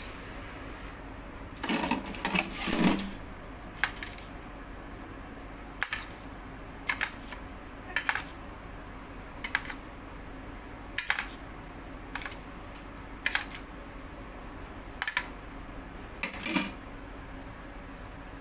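A utensil clinking and scraping against a dish as marinade is spooned over roasted chicken: short light clinks every second or so, with a longer scrape about two seconds in.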